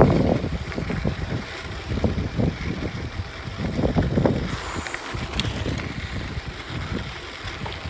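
Wind buffeting the microphone: uneven, gusty low rumble, over the scattered knocks and rattle of a mountain bike on rough dirt trail.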